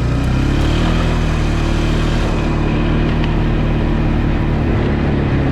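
Vehicle engine running steadily under way, its pitch rising a little about a second in as it speeds up, then holding.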